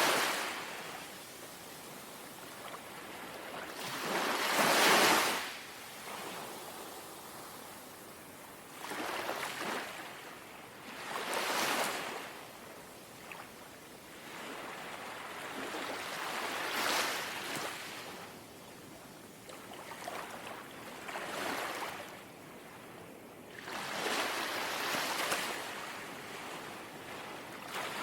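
Small, gentle sea waves lapping onto the shore: a rushing hiss that swells and fades about seven times, every three to five seconds, the strongest about five seconds in, over a soft steady wash between them.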